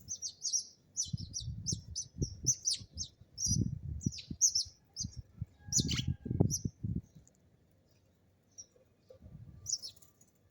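Sparrows chirping: a rapid run of short, high chirps for about seven seconds, thinning to a few near the end, with low bumps and rustles alongside the chirping.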